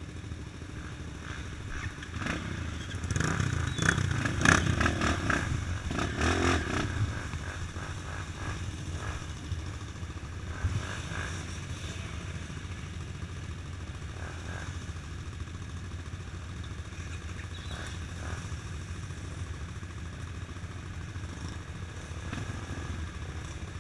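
A motor vehicle's engine running steadily with a low rumble. From about two to seven seconds in there is a louder stretch of clattering and rattling, and a single knock comes near the eleven-second mark.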